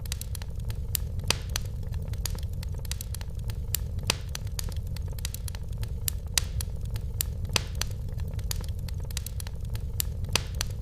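Wood fire burning in a fireplace: a steady low rumble with frequent irregular crackles and occasional louder pops.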